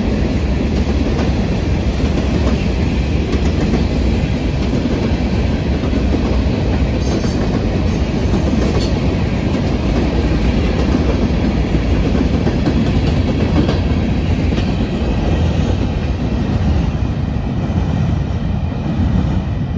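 An empty freight train of covered grain hopper cars rolling past, its wheels on the rails making a steady rolling noise.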